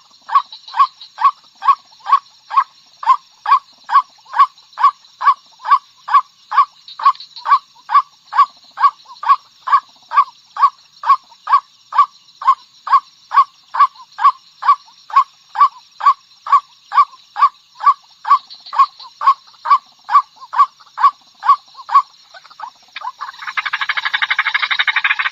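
White-breasted waterhen (ruak-ruak) giving a long monotonous series of short single calls, about two a second. About 23 seconds in, a louder, harsher continuous calling takes over.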